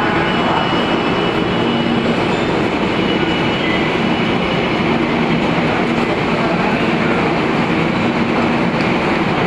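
A train running along the track: a steady, loud rush of rail noise with a faint hum that comes and goes.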